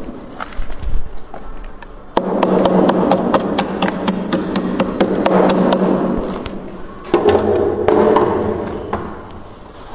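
Freezer frost ice being scraped and crunched: a run of sharp cracks and clicks, with two long grinding scrapes from about two seconds in and again just after seven seconds.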